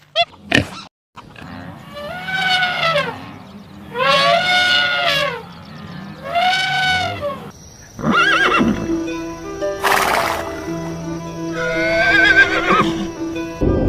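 Animal calls: three drawn-out calls, each rising then falling in pitch. About eight seconds in, a different passage starts with steady held tones and more quavering calls.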